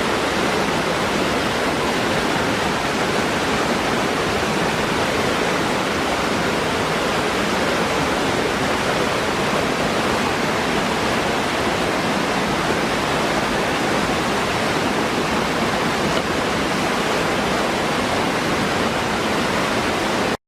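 Waterfall rushing steadily: a dense, even hiss of falling water with no change in level.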